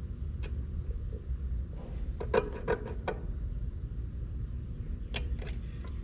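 Sharp clicks and light metallic rattles from handling the meter leads and tools at the air conditioner's capacitor: one click about half a second in, a rattling cluster around two to three seconds, and two more clicks near the end, over a steady low rumble.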